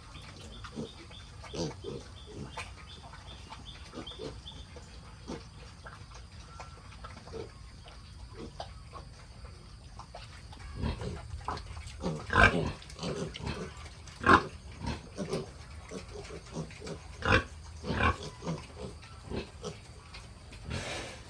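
Pigs grunting with short calls, scattered at first, then louder and more frequent from about halfway through.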